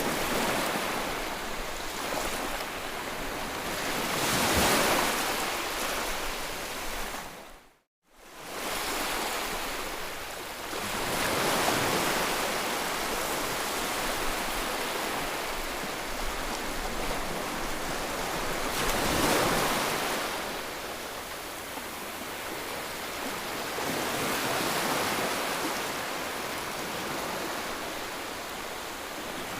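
White noise: a steady, even hiss that swells and eases slowly every six to eight seconds, much like surf. About eight seconds in it drops out to silence for a moment, then comes back.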